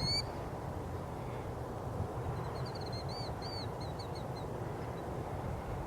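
Wild birds calling: one short high call at the start, then a run of quick high chirps between about two and four seconds in, over steady low background noise.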